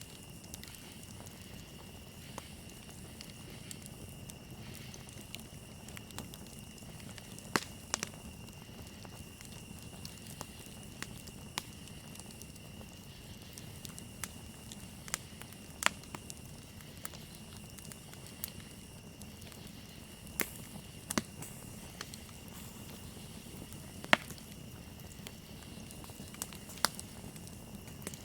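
Campfire crackling, with irregular sharp pops a few seconds apart, over a steady high chirring of crickets.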